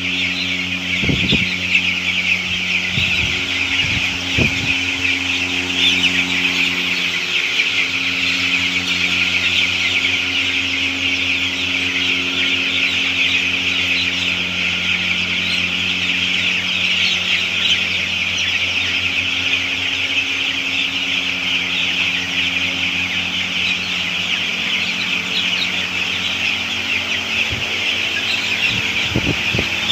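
A large flock of chickens in a poultry shed, many birds cheeping and clucking at once in a dense, unbroken chorus, over a steady low machine hum. There are a few brief knocks about a second in and near the end.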